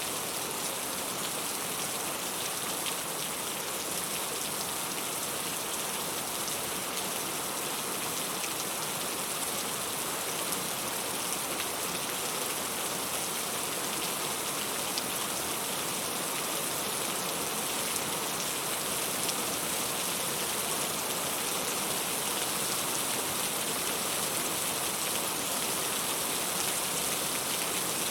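Steady rain falling and pattering on surfaces, an even hiss of many drops with faint scattered ticks.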